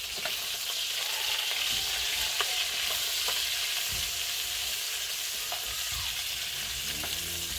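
Food sizzling in hot oil in a cooking pot: a steady frying hiss with a few small pops.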